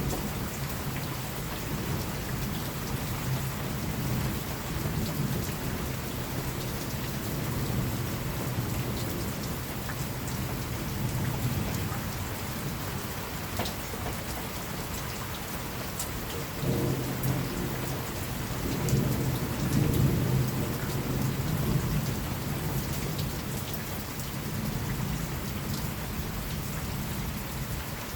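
Steady rain falling, with low, distant thunder rumbling underneath that swells louder about two-thirds of the way through.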